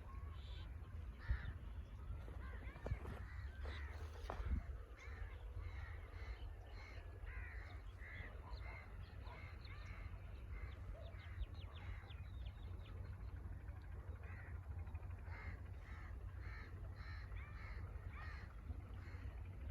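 Crows cawing over and over, many short calls overlapping, with quicker high chirps of smaller birds among them and a steady low rumble underneath.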